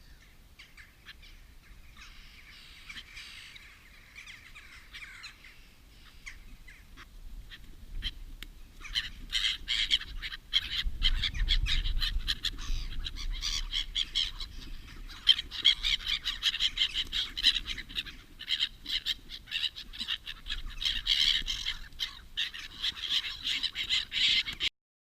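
A group of birds calling and chattering, many short overlapping calls; it grows much louder about a third of the way in and cuts off suddenly near the end.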